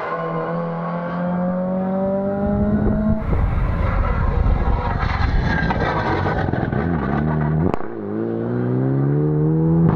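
Rally car engine accelerating hard, its note climbing steadily in pitch, then breaking off about three seconds in. From about seven seconds in another engine note climbs the same way, with one sharp crack just before it.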